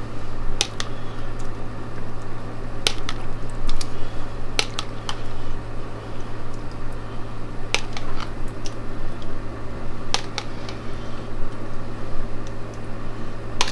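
A spoon clicking and scraping against a bowl and baking dish as mango salsa is scooped out and spread on fish, with sharp taps every second or so over a steady low hum.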